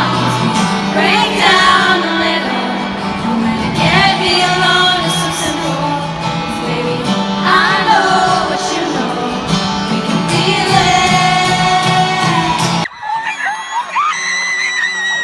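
Live pop concert music with singing over the band, heard at stadium volume. About thirteen seconds in it cuts abruptly to another passage of high, held tones.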